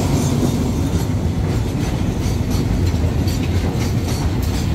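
Freight train of oil tank wagons rolling slowly past at close range behind an Alsthom diesel locomotive: a steady low rumble, with the wheels clicking over rail joints in the second half.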